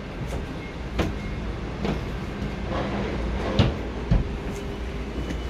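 Steady low outdoor rumble with a few sharp knocks and clunks, about one second, three and a half seconds and four seconds in.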